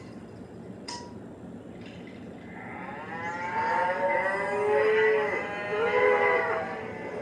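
Cattle mooing: several overlapping drawn-out moos that bend in pitch, starting about three seconds in, after a brief sharp click about a second in.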